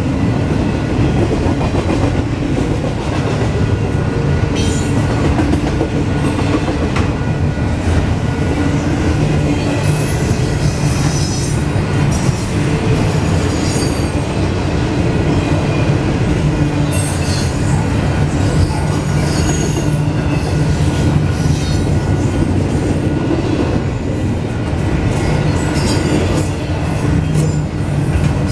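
Double-stack intermodal freight train's container well cars rolling past: a steady, loud rumble of steel wheels on rail, with high wheel squeal that comes and goes several times.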